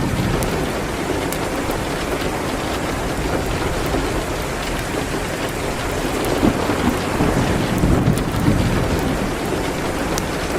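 Steady rain on a window with a fireplace crackling: sparse sharp pops over an even hiss of rain. A low rumble swells a little in the second half.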